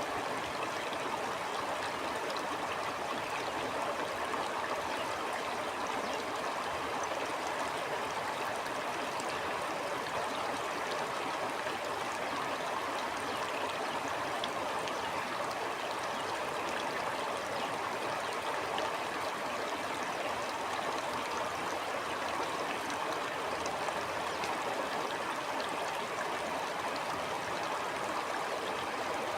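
A stream flowing, a steady, even rush of water with no breaks or distinct splashes.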